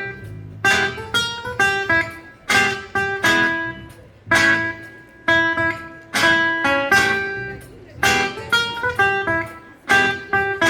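A guitar ensemble playing a rock-and-roll tune: chords struck with sharp attacks, each ringing out and fading before the next.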